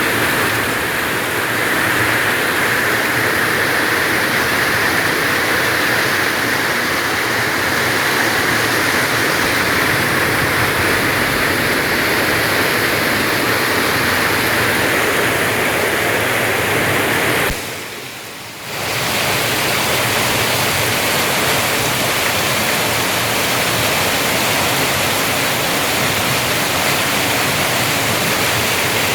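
Heavy rain pouring steadily, a loud even rush. It briefly drops away for about a second about two-thirds of the way through.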